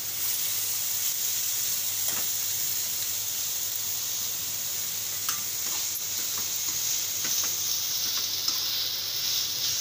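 Onions, capsicum and shredded boiled chicken sizzling in oil in a kadai, steady hiss throughout, while a perforated metal spoon stirs through the mixture with a few light clicks against the pan.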